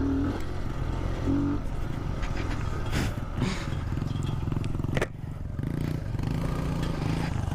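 Kawasaki Z125's small single-cylinder engine running steadily while riding, with a sharp click about five seconds in.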